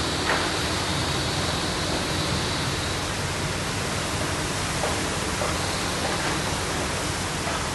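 Steady rushing noise of heavy rain and floodwater pouring along a street.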